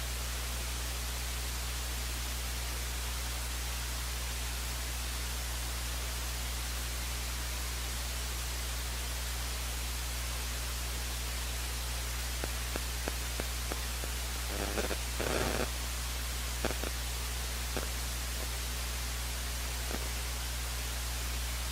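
Steady hiss with a low electrical hum, the idle noise of an open audio line with no commentary, with a few faint clicks and a brief rustle in the last third.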